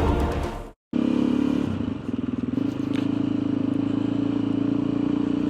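Intro music fading out, then after a moment of silence a motorcycle engine idling steadily.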